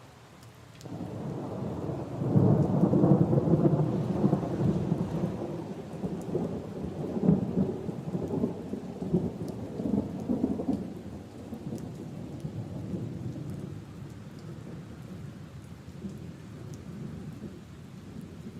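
A long roll of thunder over steady rain: it breaks in about a second in, is loudest for the next few seconds, then rumbles on more quietly, fading toward the end.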